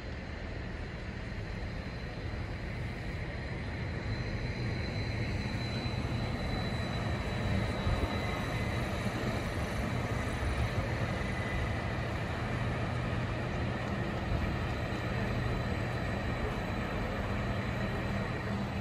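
Passenger trains at a station: a steady low running hum with a faint high whine, growing a little louder about four seconds in.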